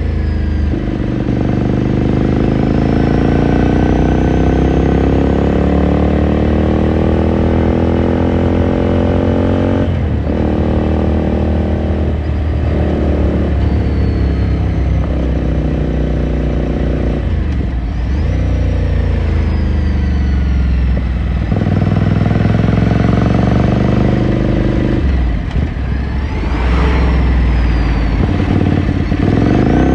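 2018 Ducati Scrambler Sixty2's air-cooled L-twin engine running under throttle, heard onboard. Its pitch climbs over several seconds and falls back about seven times.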